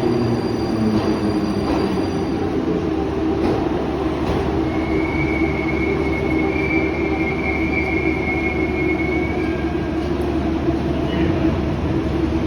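Baltiets metro train braking as it pulls into the station. Its motor whine falls in pitch in the first couple of seconds, and then a steady high squeal holds for about five seconds over the running rumble.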